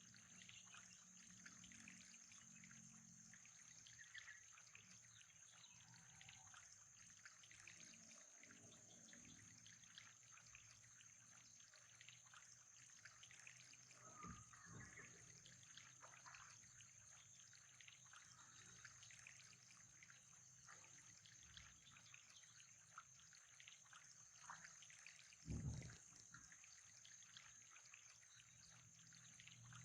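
Faint, steady trickle of water, with a thin steady high whine throughout and a soft low thump near the end.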